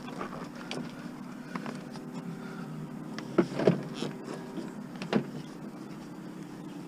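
A vehicle engine idling steadily, with a few sharp knocks about three and a half and five seconds in.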